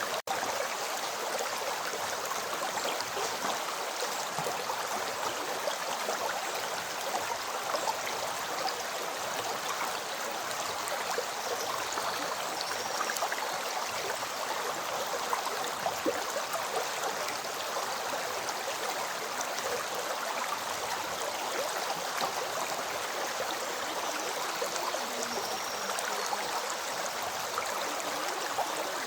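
River water flowing and gurgling over stones, a steady even rush with fine splashing.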